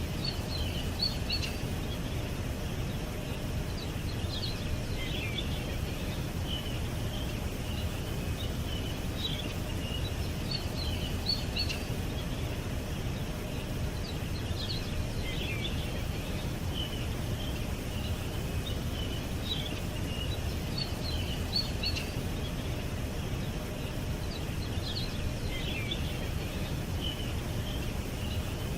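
Small birds chirping and twittering in short scattered calls over a steady low background rumble.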